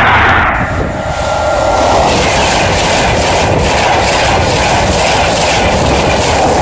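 High-speed passenger train passing close by at speed: a loud, steady rush of wheel and air noise. A faint trace of its horn fades out in the first two seconds.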